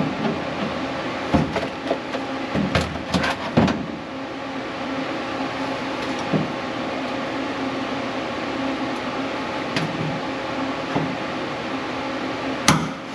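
A steady mechanical hum with scattered sharp knocks and clanks: several in the first four seconds and one loud one near the end.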